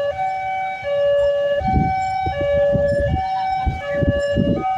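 Two-tone hi-lo siren, alternating steadily between a lower and a higher note about every three-quarters of a second, with low rumbling noise underneath from about halfway through.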